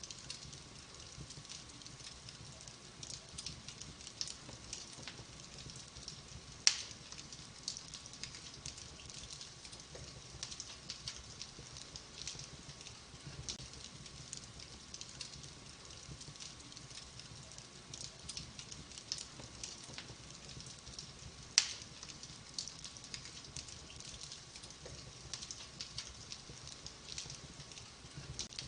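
Fire burning in a fireplace, crackling steadily with many small ticks and two much louder sharp pops, one about seven seconds in and one about twenty-two seconds in.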